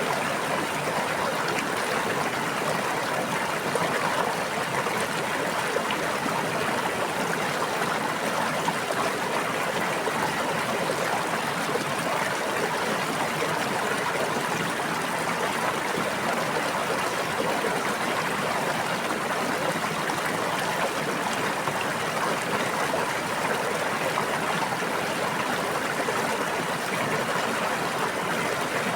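Running water of a stream flowing steadily: an even, unbroken rush with a fine trickling texture.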